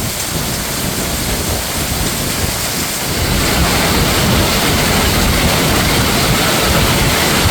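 Heavy hail falling: a dense, steady rush of hailstones pelting down, growing a little louder about three seconds in.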